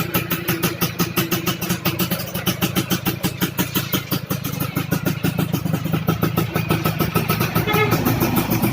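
Yamaha F1ZR's race-tuned two-stroke single-cylinder engine running at a lumpy idle, pulsing about six times a second, with a slight rise in pitch near the end.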